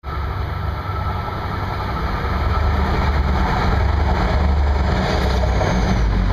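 MBTA Commuter Rail train approaching on the tracks: a steady low rumble that grows gradually louder as it nears.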